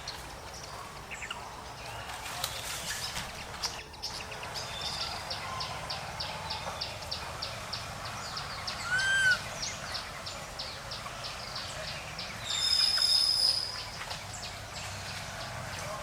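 Birds calling: a fast run of high chirps about four seconds in, a short arched call with overtones around nine seconds, and a louder high note lasting about a second near the end.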